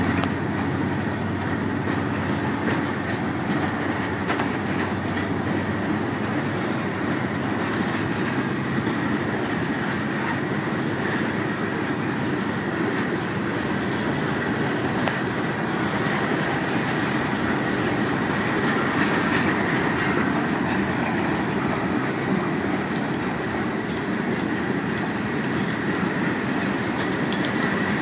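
Loaded hopper cars of a Florida East Coast Railway freight train rolling slowly through a grade crossing at about 7 mph, a steady sound of steel wheels on rail.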